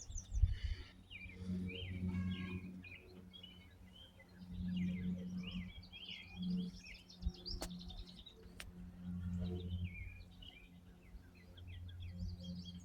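Small birds chirping and singing repeatedly, over a low hum that swells and fades, with two sharp clicks about eight seconds in.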